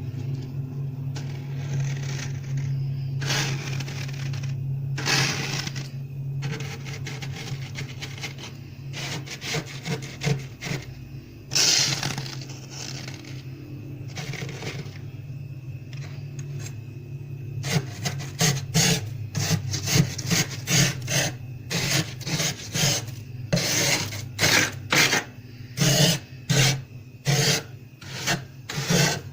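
Plastic card scraping soft, fluffy frost off a freezer wall: a few longer scrapes at first, then a quicker run of short, crunchy strokes, about one or two a second, near the end. A steady low hum runs underneath.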